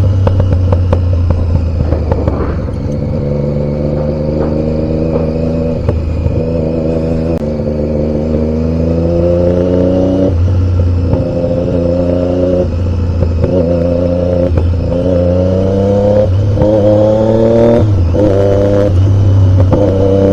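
Triumph Daytona 675 motorcycle's three-cylinder engine under way, its note rising in pitch again and again, each rise broken off by a short dip and a drop in pitch as it shifts up through the gears. A steady low rumble runs underneath.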